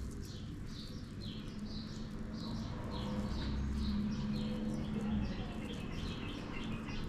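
Small bird chirping repeatedly: a rapid series of short, high, falling chirps, two or three a second, over a low steady hum.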